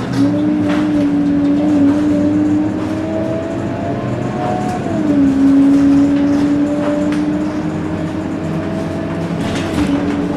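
Scania K230UB bus's five-cylinder diesel engine and drivetrain running under way, with a steady whine that climbs slowly and then drops sharply about halfway through as the automatic gearbox shifts up.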